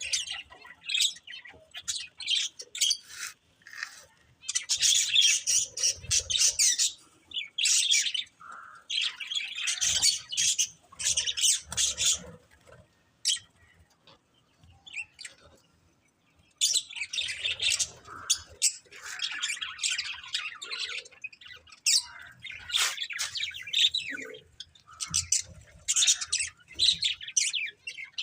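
Budgerigars chattering and warbling in fast bouts of chirps and squawks, with a quieter lull about halfway through.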